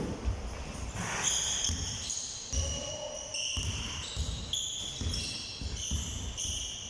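Basketballs bouncing on a hard court floor in repeated low thumps, with short high-pitched sneaker squeaks between them, echoing in a large hall.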